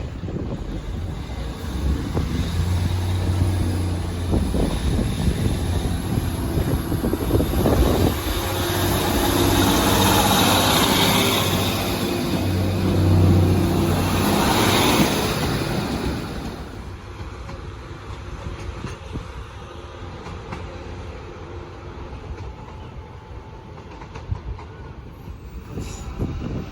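A diesel train passing at speed. Its engine hum rises as the train nears and comes through twice, with wheel and rail noise peaking as it goes by, then fading after about sixteen seconds into wind noise on the microphone.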